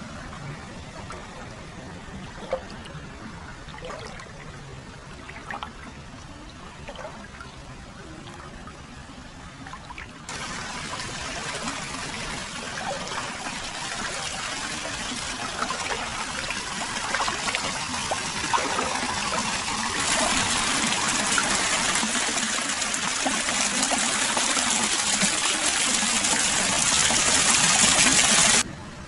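Hot-spring water flowing and trickling into a footbath, a steady splashing rush. It gets abruptly louder about ten seconds in and again about twenty seconds in, then drops away sharply just before the end.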